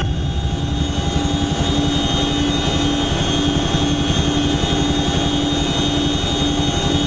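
Helicopter in flight: steady engine and rotor noise, with a tone that pulses about twice a second.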